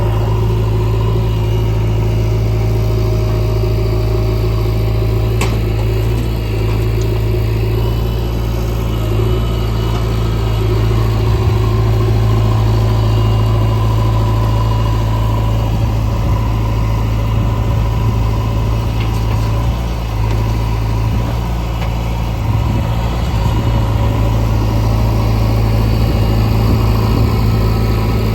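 Diesel engine of heavy earthmoving machinery running steadily with a strong low hum, growing a little louder about ten seconds in.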